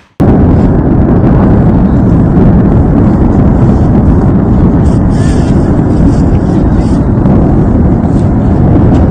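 Very loud, steady roar of violent wind battering the microphone, starting abruptly just after a cut.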